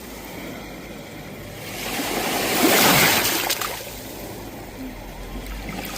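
Sea waves washing onto a shore: a steady rush of surf, with one wave swelling about two seconds in, breaking loudest around three seconds and drawing back, and the next starting to build near the end.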